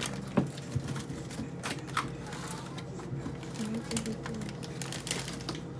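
Light, irregular clicks and knocks of household items being handled and set down, over a steady low hum, with faint voices in the background.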